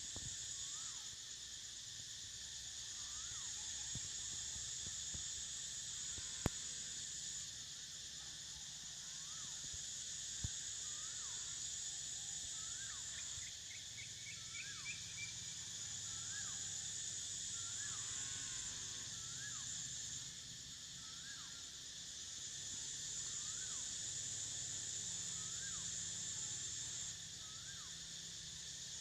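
Morning birdsong over a steady high-pitched insect chorus that swells and eases every few seconds. A bird repeats a short rising-and-falling whistled note about every second and a half, with a brief trill about halfway through, and a couple of sharp clicks break in.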